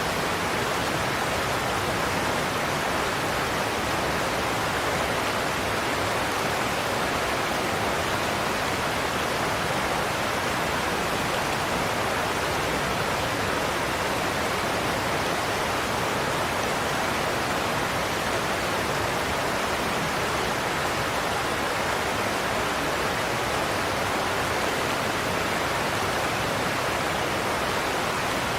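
Godafoss waterfall: a large volume of water pouring over a cliff into a plunge pool, a steady, unbroken rush.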